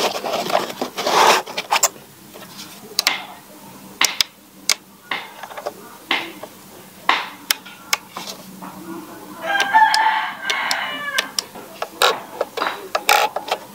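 A rooster crows about ten seconds in: one long call with wavering pitch, heard among frequent sharp clicks and knocks as foam inserts and a plastic RC radio transmitter are handled in a hard case.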